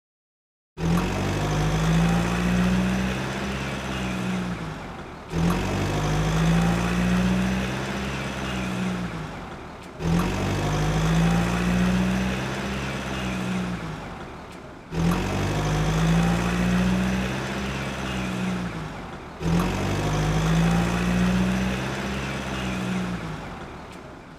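A motor-vehicle engine sound, running with a slight rise and fall in pitch. It is a clip of about four and a half seconds repeated five times, each repeat cutting in abruptly.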